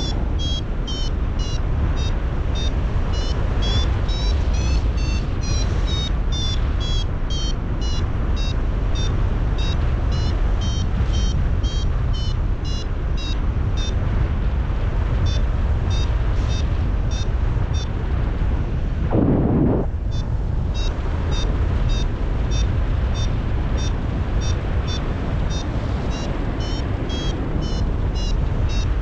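Paragliding variometer beeping steadily, about two to three short high beeps a second whose pitch steps up and down: the climb tone that signals the glider is rising in lift. Under it, steady wind rushing on the microphone; the beeps stop for about a second roughly two-thirds of the way through, where a strong gust hits the microphone.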